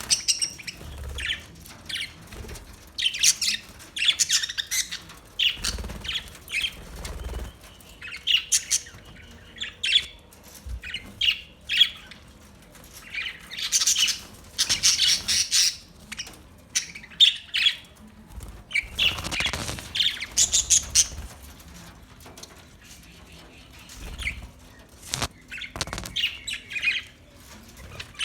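Budgerigars chirping and squawking in irregular bursts of high, rapid calls with short pauses between them.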